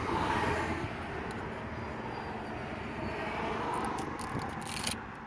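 Road traffic passing: a steady rush of tyre and engine noise that swells and eases, with a few sharp clicks near the end.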